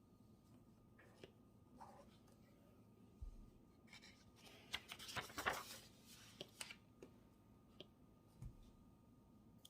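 Pen writing on paper: faint scattered strokes and taps, with a louder stretch of quick scratching and rustling about five to six and a half seconds in.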